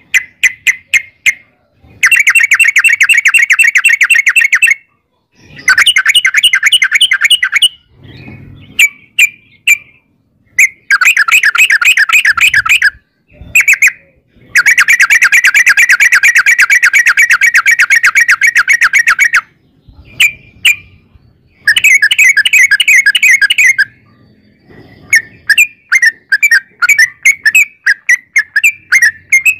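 Yellow-vented bulbul (trucuk) singing its long rapid chattering runs, many quick repeated notes strung together for several seconds at a time, with short pauses between runs and looser, scattered notes near the end.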